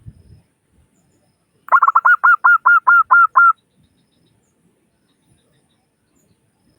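Zebra dove (perkutut) singing: one loud run of about a dozen quick, clipped cooing notes, packed tightest at the start, lasting under two seconds and starting about two seconds in.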